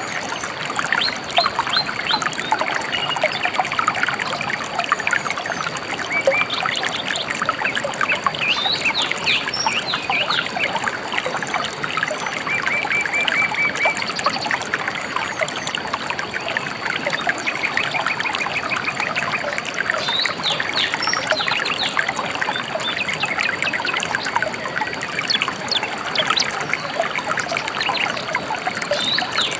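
Gently flowing river trickling steadily, with songbirds chirping throughout: short calls and quick repeated trills over the water.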